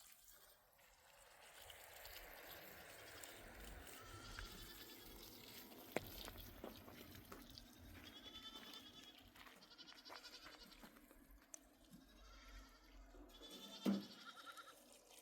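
Faint, distant bleating from a flock of sheep and goats: several short calls spread through, with a sharp click about six seconds in.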